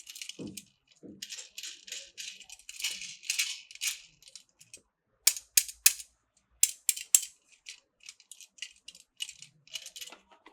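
Plastic toy train parts rattling and clicking as they are handled, with a run of sharp clicks about halfway through.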